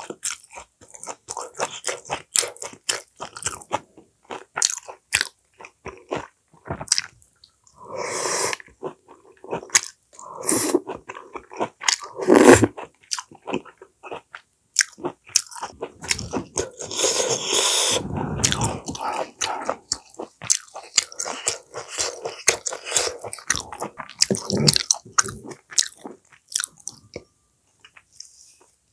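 A person chewing food close to the microphone: a long run of short, wet mouth clicks and smacks, with soft crunching. A few louder, longer mouth noises come in the middle.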